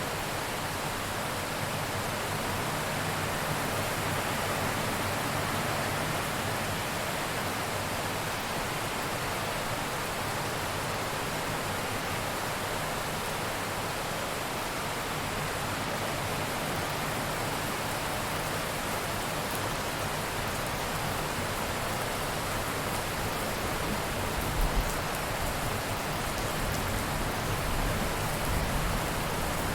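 Steady, heavy rain falling as a dense, even hiss, with a brief low thump about 25 seconds in and another near the end.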